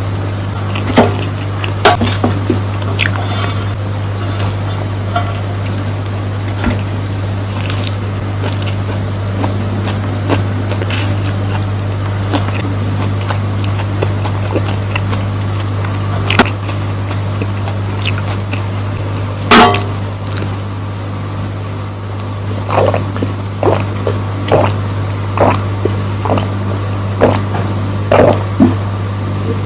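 Eating sounds from close by: a spoon clicking and scraping on a plate and wet chewing of rice with sweet soy sauce, in short separate bursts. These come about once a second near the end. A steady low hum runs underneath.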